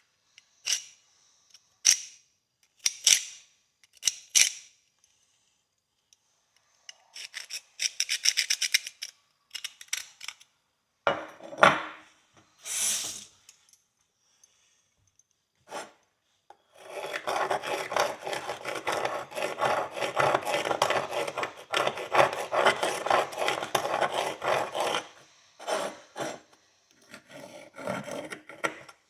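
A hand pick scraping and rubbing along the grooves of an old pony horseshoe, a final run-through to check the crease for leftover dirt. It starts as short strokes with pauses, then scrapes steadily for about eight seconds past the halfway mark, and ends with a few short strokes.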